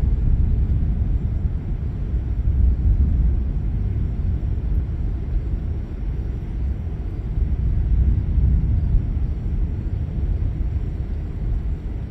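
Thunder rolling in a long, continuous low rumble that swells about three seconds in and again near eight to nine seconds.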